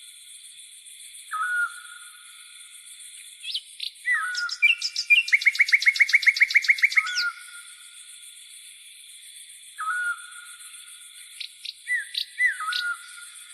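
Songbirds calling with short whistled notes every few seconds over a steady high-pitched insect buzz, likely grasshoppers. In the middle comes a fast trill of about seven notes a second lasting about two seconds.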